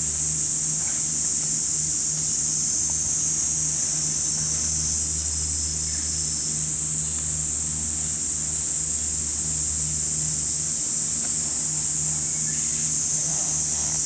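Summer cicadas in a dense chorus, a continuous high-pitched shrill that does not break. A steady low hum sits underneath.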